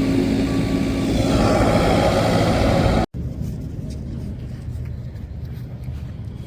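Motor vehicle noise, loud for about three seconds with a steady tone in it, then cutting off suddenly to a quieter, steady rumble.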